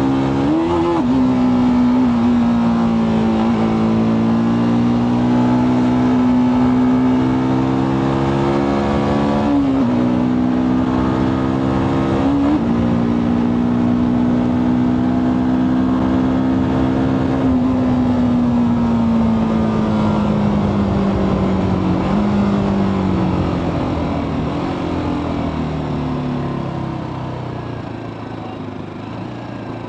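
TVS Apache RTR 310's single-cylinder engine through its stock exhaust under way. It holds a steady pitch, broken by a few short dips, then its pitch falls and it quietens as the bike slows near the end.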